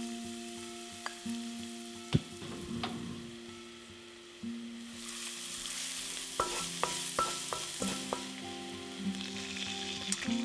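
Minced garlic and dried chillies sizzling in oil in a wok on low heat, stirred with a wooden spatula that clicks and knocks against the pan, with a sharp knock about two seconds in. The sizzle grows louder about halfway through.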